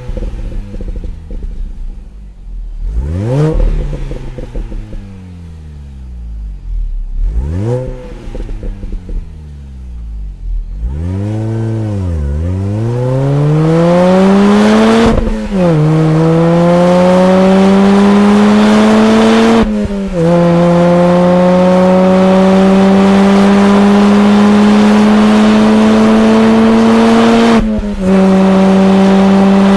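Supercharged 1.6-litre four-cylinder of a MINI Cooper S John Cooper Works R53, heard through its exhaust. It is blipped sharply three times, then pulls away and accelerates hard through the gears, its pitch climbing in each gear and dropping back at three upshifts, getting much louder as it goes.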